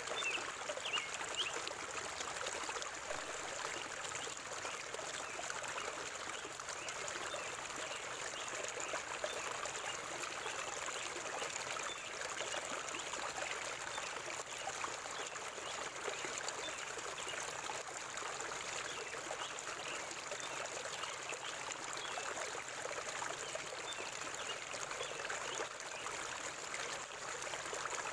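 River water flowing steadily. A few faint bird chirps come in the first second or so.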